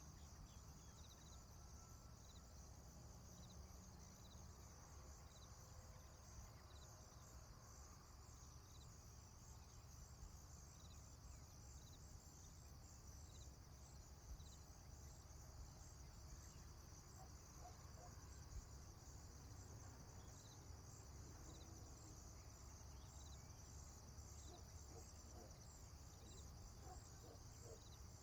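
Faint rural ambience of insects chirping: a steady high, rapidly pulsing trill with a short chirp about once a second, over a low rumble.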